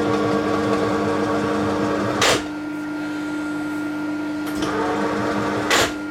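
TOS milling machine running with a steady mechanical hum, and two sharp metallic knocks about three and a half seconds apart, the first a little over two seconds in.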